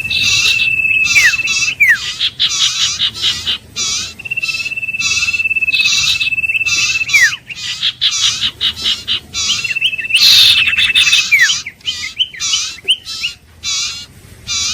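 Common iora song: a long, level whistle held for about two seconds that ends in a steep falling note, given three times, over a rapid, steadily repeated chirping.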